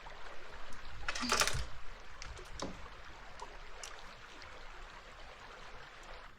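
Close-miked ASMR handling sounds: a short rustle about a second in, then scattered light clicks and taps over a faint hiss.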